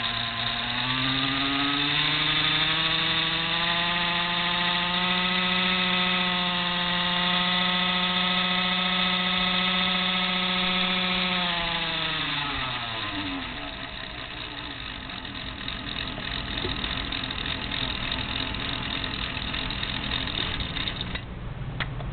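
Small motor in a 1/6-scale Harley Panhead model engine whirring. It rises in pitch over the first couple of seconds, holds a steady hum, then winds down and falls away about twelve seconds in, leaving a lower, rougher hum.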